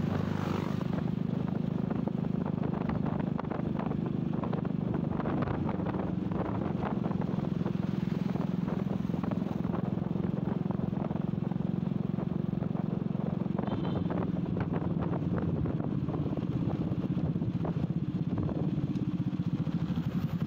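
Motorcycle engine running steadily while riding slowly in city traffic, a low even drone.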